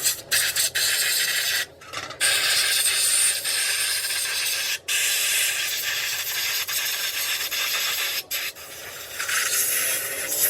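A loud, steady hiss, high in pitch, that cuts out briefly three times and starts again each time.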